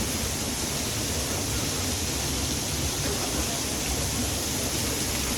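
Waterfall, a steady rushing of falling water with no breaks.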